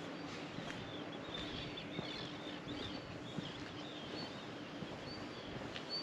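Small birds twittering in many short, high chirps, over a faint steady low hum. Footsteps tick now and then on the ground.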